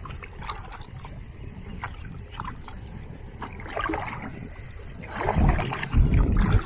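Sounds around a small fishing boat tied at a dock: scattered knocks and clunks. From about five seconds in there is a louder stretch of low rumbling and handling noise.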